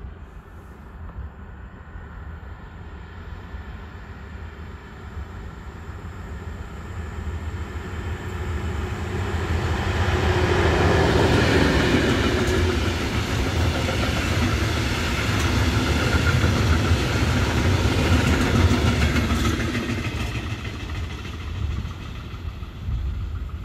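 A freight train approaching and passing at speed: a rumble that swells for about ten seconds as the locomotive and a long line of wagons go by, with wheels clattering on the rails, then dies away near the end as the last wagons pass.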